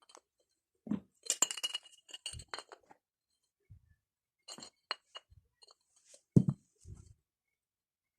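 Hard objects clinking and knocking together: a quick run of bright, ringing clinks about a second in and a few more near five seconds, with duller knocks later, the loudest about six and a half seconds in.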